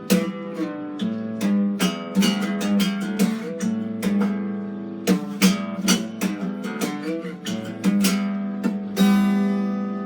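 Acoustic guitar played solo, a run of plucked notes and strummed chords ringing on, with a loud full strum about nine seconds in.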